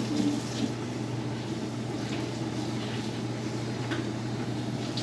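Steady low hum and hiss of kitchen background noise, with a few faint light clicks now and then.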